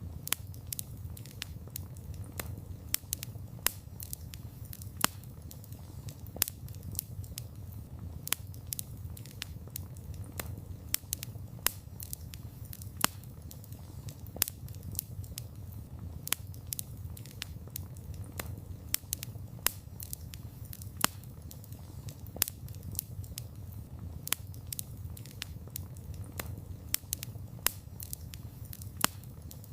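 Wood fire burning with irregular sharp crackles and pops, several a second, over a steady low rumble of the flames.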